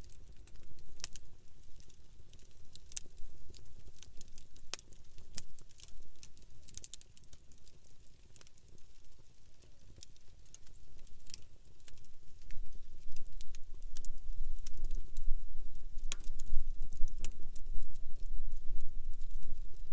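Campfire crackling, with scattered sharp pops. A low rumble comes in about two-thirds of the way through.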